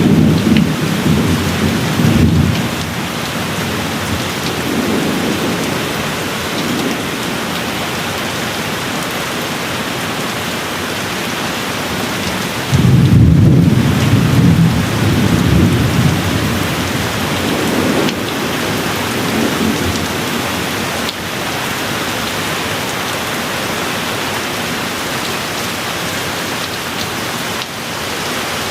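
Steady rain with rolling thunder. A rumble dies away in the first couple of seconds. A louder rumble breaks in suddenly about halfway through and rolls on for a few seconds, and a fainter one follows shortly after.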